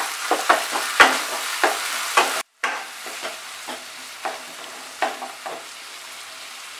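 Onion, tomato and ginger–green chilli paste sizzling in mustard oil in a nonstick wok, with a spatula scraping and stirring through the masala. The stirring strokes come thick and fast at first and thin out in the second half, leaving a steady sizzle. There is a split-second gap in the sound about two and a half seconds in.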